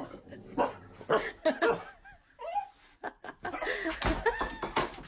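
People laughing in short bursts, mixed with some voice.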